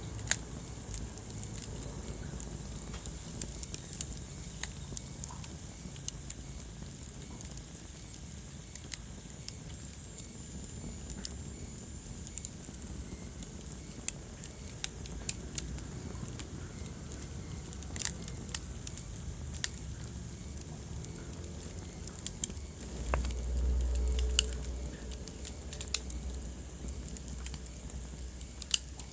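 Wood fire crackling: scattered sharp snaps and pops over a steady soft hiss, with a brief low rumbling swell of the flames a little after twenty seconds in.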